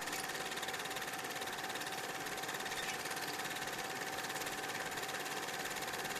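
Film projector running: a steady, rapid, even clatter with a steady hum under it.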